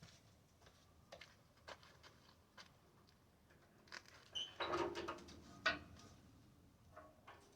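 Scattered light taps and clicks of steel parts being handled, with a short ringing metallic clatter about halfway through and a sharp click just after.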